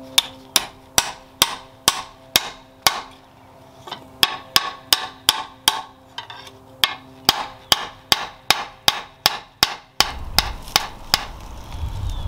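Hammer blows on metal in runs of about two to three a second with brief pauses, over a steady metallic ring for the first several seconds. Near the end a few more blows sound over a low rumbling noise.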